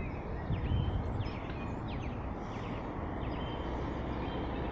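Steady outdoor background rumble with small birds chirping in short, repeated calls.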